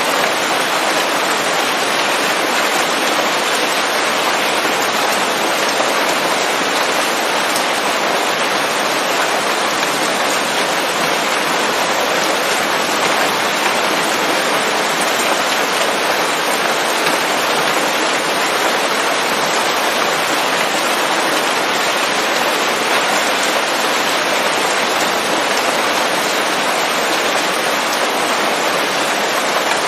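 Steady, dense rain falling on leaves.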